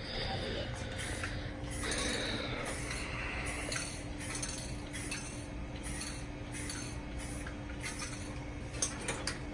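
Aerosol spray paint can being shaken, its mixing ball rattling in quick repeated strokes, with a few sharp clicks near the end. A steady low hum runs underneath from about a second in.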